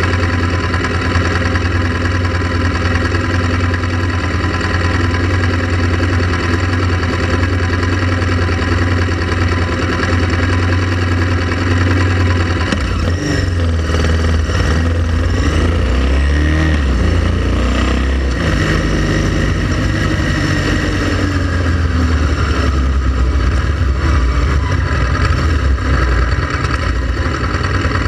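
Motorcycle engine running at a steady low note, then from about halfway through its pitch rises and falls as it is revved and changes speed.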